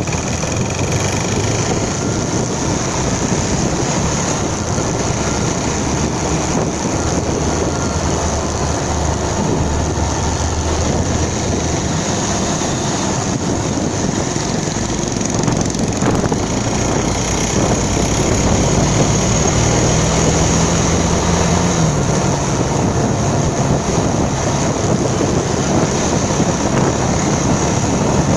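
Motorcycle engine running while riding, over a steady rush of noise; the engine note shifts in pitch a little past the middle.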